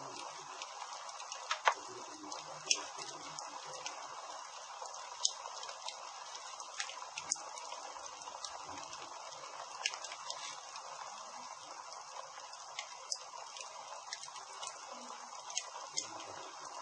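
Campfire burning with a steady hiss and irregular sharp crackles and pops, the loudest a little under two seconds in.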